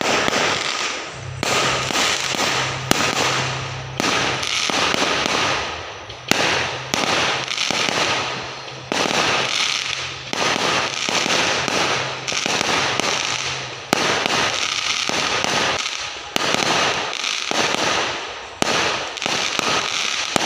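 Fireworks going off in quick succession: a sharp bang every second or two, each dying away over a second or so before the next. A low steady hum runs underneath through about the first two-thirds.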